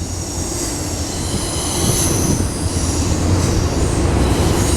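Freight train rolling past close by: a steady low rumble of wheels on rail with thin, high wheel squeal held over it.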